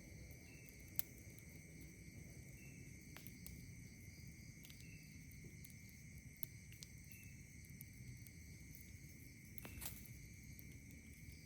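Campfire crackling softly, with sharp single pops about a second in and again near the end, over a steady high-pitched chorus of night insects. A short chirp repeats every couple of seconds.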